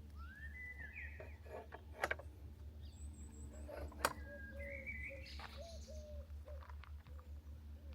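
Birds calling and singing in the open: several short rising and wavering whistled notes, and lower short notes in the middle. Two sharp clicks come about two seconds apart, over a steady low rumble.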